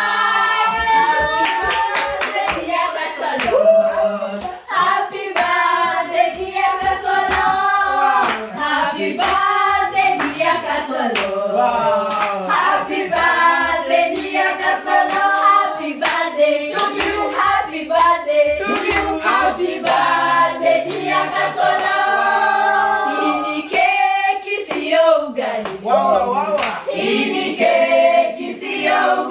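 A group of people singing together, accompanied by repeated hand clapping.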